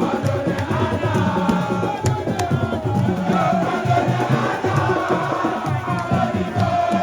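Chanting voices singing over a steady, busy drum rhythm.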